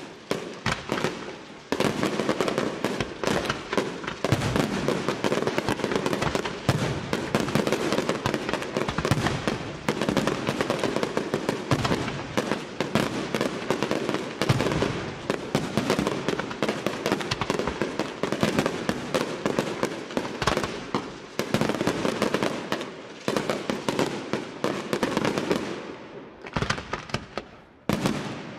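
Senatore Fireworks aerial display: a dense, continuous barrage of shell bursts, rapid overlapping pops and bangs with hardly a pause. It builds up about two seconds in and thins out near the end.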